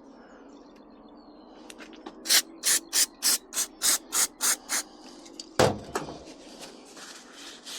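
Quick scrubbing strokes, about nine in two and a half seconds, cleaning varnished deposits out of the inside of a small petrol generator's carburettor float bowl, followed by a single knock.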